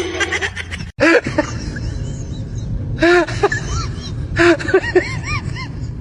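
A voice giving short, high calls that rise and fall in pitch: one about three seconds in, then a quick run of several more, over a steady low background.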